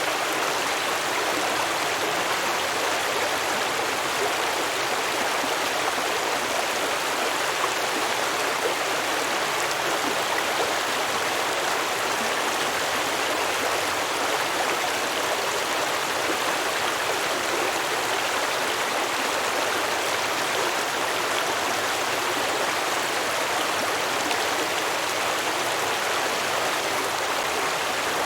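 Small stream flowing and babbling over rocks, a steady, unchanging rush of water.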